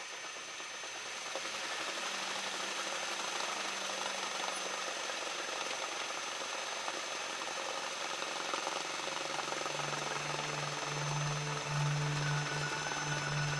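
Cessna 172 Skyhawk engine running as a steady hiss-like drone. A deeper pitched hum comes in about ten seconds in, and the sound gets slightly louder.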